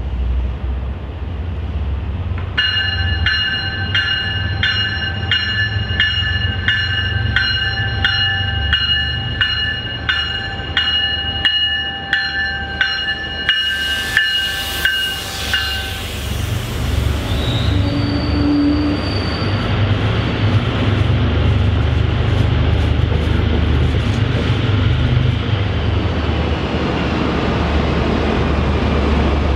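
MBTA commuter rail train pulling in, its bell ringing steadily a little under twice a second for about thirteen seconds over the low rumble of the diesel locomotive. A short, loud hiss comes near the end of the ringing.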